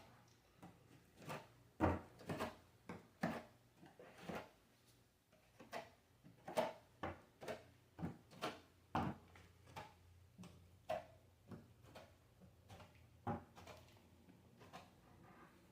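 A series of irregular light knocks and clicks, roughly one or two a second, some with a brief ring.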